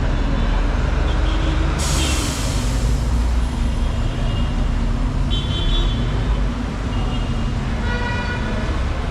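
Dense city traffic: engines rumbling steadily with a brief hiss about two seconds in, and car horns tooting briefly in the middle and again near the end.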